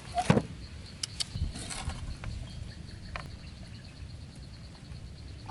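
A few sharp knocks and rustles in the first two seconds, then softer rustling, over a faint high chirp that repeats several times a second.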